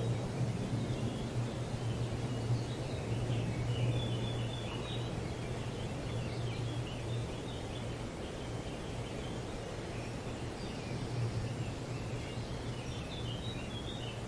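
Birds chirping and chattering in short scattered calls, over a steady low hum and a soft outdoor hiss.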